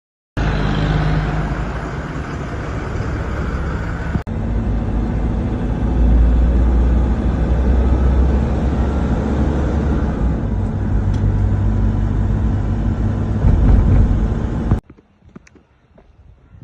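A vehicle running, steady and loud with a heavy low rumble. It breaks off sharply after about four seconds, picks up again at once, and cuts off suddenly near the end.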